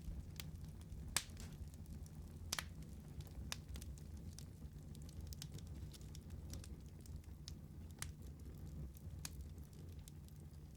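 Wood fire crackling: irregular sharp pops and snaps over a low steady rumble, with the loudest pops about a second in and again at two and a half seconds.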